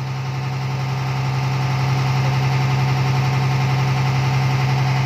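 Six-wheel truck's engine running steadily, building air pressure in a large tank for the air horns. A steady hum that grows slightly louder in the first couple of seconds, then holds.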